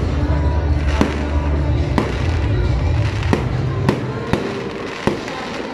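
Aerial firework shells bursting in a fireworks display: a sharp bang roughly every half second to a second, about eight in all.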